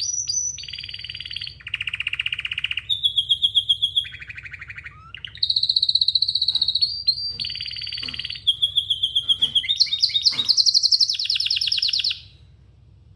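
Domestic canary singing: a string of fast trills, each a rapid run of one repeated note, switching pitch from phrase to phrase. The song stops about a second before the end.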